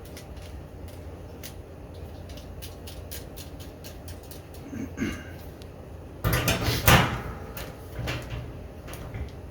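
Hand rivet-nut tool and steel drum being worked while threaded rivet nuts are crimped into the drum. Light metal clicks and ticks, then a loud clattering scrape about six seconds in and a few knocks after.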